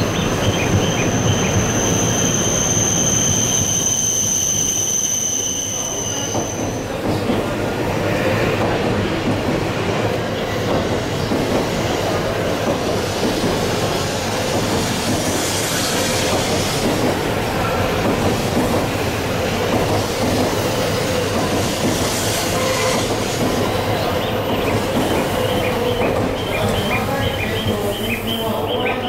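E7/W7-series Shinkansen trains on the curved station tracks: high, steady wheel squeal for about the first six seconds, then the continuous rumble of a train running past close by and another pulling in.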